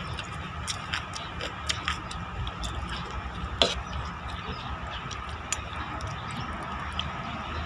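Eating sounds: scattered light clicks and taps, with one sharper tap about three and a half seconds in, over a steady low rumble of wind on the microphone and a faint steady hum.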